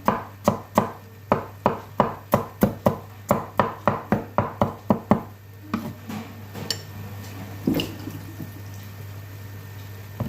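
Knife chopping food on a cutting board, about three strokes a second for the first five seconds, then a few scattered softer knocks.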